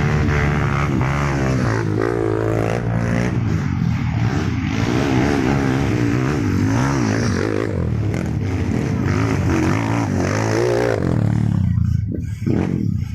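Trail motorcycle engines revving on a hill climb, their pitch rising and falling as the throttle is worked, dropping away near the end.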